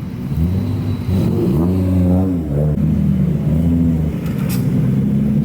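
A modified car's engine being revved through its aftermarket exhaust, its low note rising and falling in several swells, with one sharp snap about four and a half seconds in.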